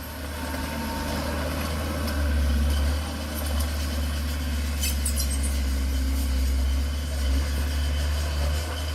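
Heavy diesel earthmoving machine engine running steadily with a deep low drone, with a brief clatter of clicks about five seconds in.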